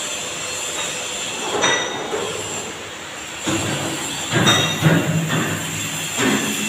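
Metal clanking and brief high-pitched metallic squeals and rings over a steady workshop noise, with a low hum starting about three and a half seconds in.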